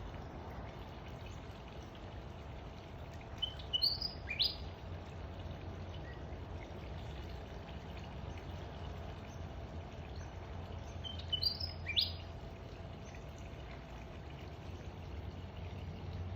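Small bird calling in short, quick, upward-sweeping chirps, one cluster about four seconds in and another about twelve seconds in, over steady low background noise.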